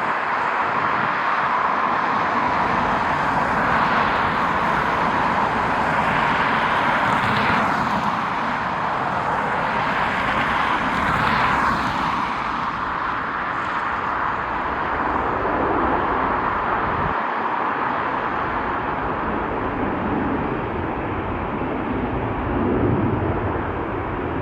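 Jet airliner engines running with a steady rushing noise, swelling twice with a brief higher whine about seven and eleven seconds in.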